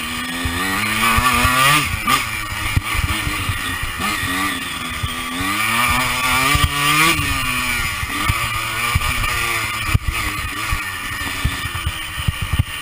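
Honda CR125 two-stroke single-cylinder engine revving hard under throttle: its pitch climbs for a couple of seconds, drops, then climbs again for about three seconds before falling away. Low thumps and wind buffeting on the rider-mounted microphone near the start and end.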